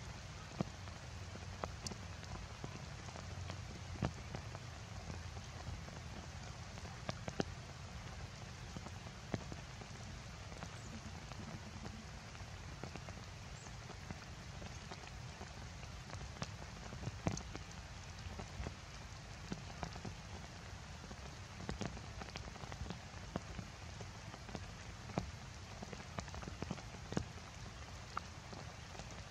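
Heavy rain falling steadily, with scattered sharp taps of drops striking hard surfaces.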